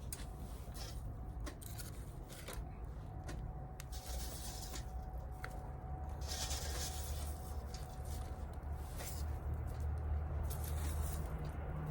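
Flint and steel struck together in irregular sharp clicks and scrapes. A low rumble builds from about six seconds in.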